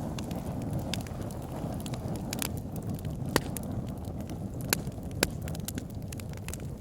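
Wood fire burning in a log burner: a steady low rush of flames with scattered sharp crackles and pops, a few louder pops in the second half.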